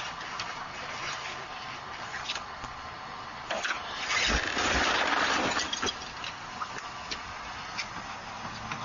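Car noise heard from a dashcam, a steady road rumble with light clicks. About four seconds in there is a louder rush of noise lasting under two seconds, with a couple of low thuds at its start.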